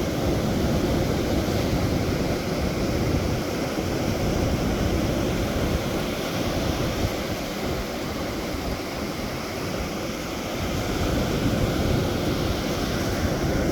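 Sea waves washing on the shore with wind, a steady rushing noise that swells and eases slowly, with wind buffeting the microphone.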